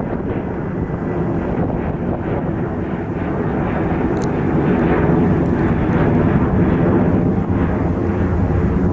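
Jet airliner passing, its engine noise growing louder from about three seconds in, with wind on the microphone.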